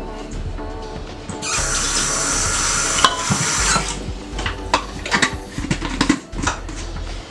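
Water running for about two seconds, like a tap into a sink, followed by a string of sharp clicks and knocks, with background music underneath.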